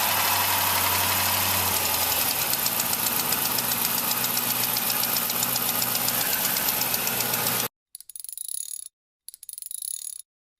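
Dodge Charger police car's 5.7-litre Hemi V8 idling just after a start, its idle settling lower about two seconds in, then steady; it is being run up to warm so that moisture from the engine detail evaporates. The engine sound cuts off suddenly about three quarters of the way through, followed by a few short, high chiming sounds.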